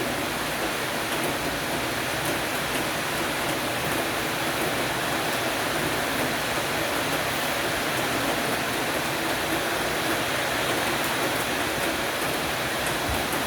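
Rain shower falling steadily on a porch roof: an even, unbroken hiss of downpour.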